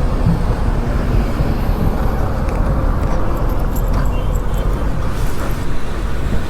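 Steady road noise of a motorcycle ride: engine and wind rush on the rider's microphone, heavy at the low end and unbroken.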